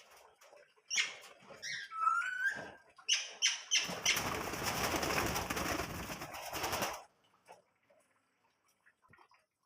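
Small caged pet birds calling, with short gliding chirps and squawks, then a flurry of wing flapping for about three seconds in the middle.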